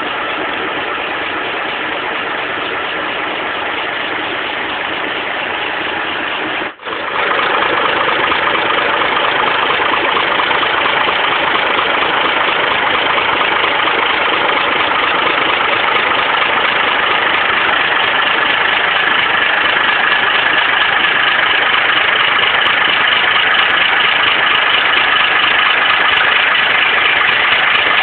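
Tractor fitted with a Saviem engine running steadily at idle. The sound cuts out for a moment about seven seconds in, then carries on somewhat louder.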